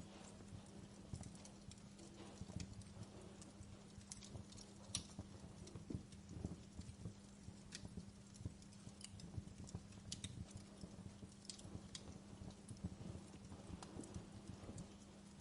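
Wood fire crackling in a fireplace: irregular small pops and snaps over a low, steady rumble of burning logs.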